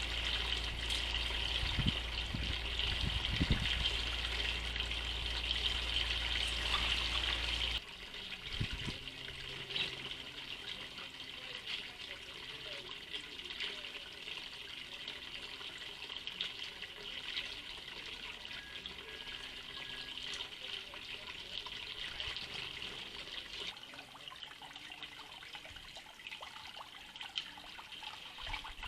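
Garden ambience at a bird feeder: a steady high-pitched hiss of small birds chattering, with scattered chirps. A low hum under it cuts off abruptly about eight seconds in, where the sound drops and grows quieter.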